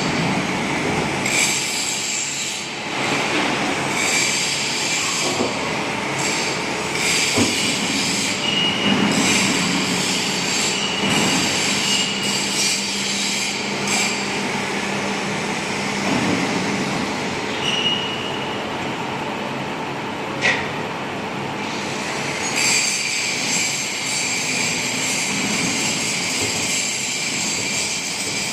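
W24S hydraulic profile bending machine running, its hydraulic drive humming steadily while the rolls work a square steel tube, with intermittent high metallic squeals. A single sharp click about twenty seconds in.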